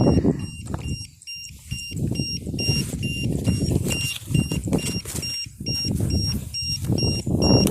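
An electronic beeper sounding short, high beeps in a steady rhythm about twice a second, over heavy wind buffeting the microphone.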